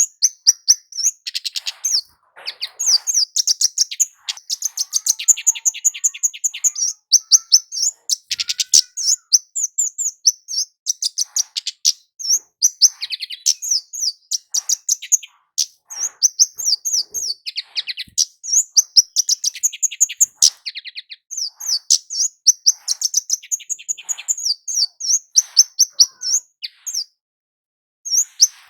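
Kemade jawa, a flowerpecker, calling in long rapid runs of sharp, high-pitched chirps, with a brief pause near the end.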